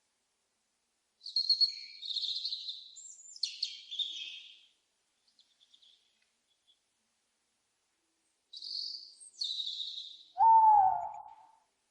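Owl calls: high-pitched bird calls twice, then one loud owl hoot near the end that falls slightly in pitch.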